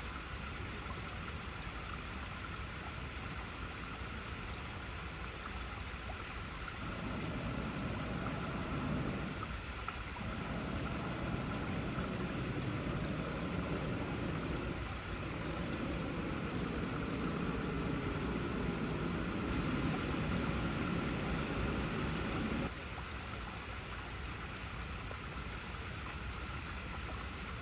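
Water flowing over icy rocks, a steady hissing rush. A louder, deeper rushing layer comes in about a quarter of the way through, dips briefly twice, and cuts off suddenly a few seconds before the end.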